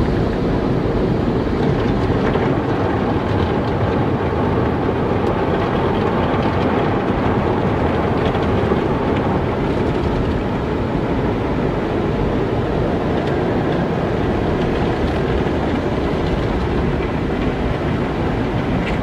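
Car wash machinery running: a steady low rumble of noise with a fainter hiss of spray above it.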